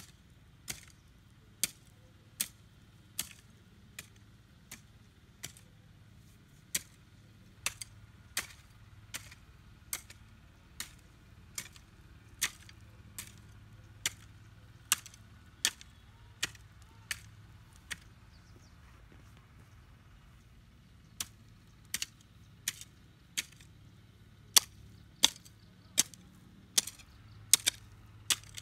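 A blade chopping grass stalks into planting cuttings: sharp, regular chops at a little over one a second, with a short pause about two-thirds of the way through.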